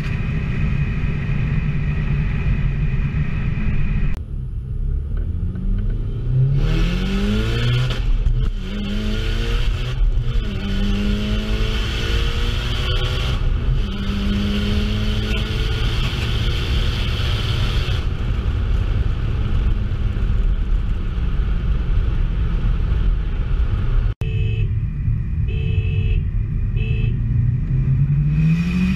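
Mitsubishi Lancer Evolution IX's turbocharged 2.0-litre four-cylinder heard from inside the cabin, accelerating hard through several gears, its pitch climbing and dropping at each shift, then holding steadier. It cuts out briefly near the end, then climbs in revs again.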